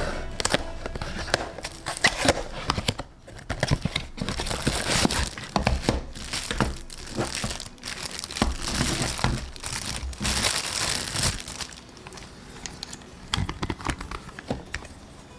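Packaging crinkling and tearing as a parcel is opened by hand, in dense irregular bursts that die down about three-quarters of the way through, with a few light clicks near the end.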